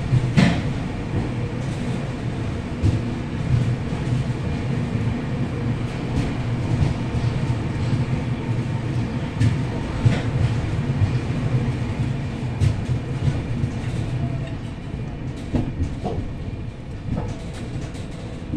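Passenger train running, heard from aboard the coach: a steady low rumble of wheels on the track, with scattered clicks and knocks.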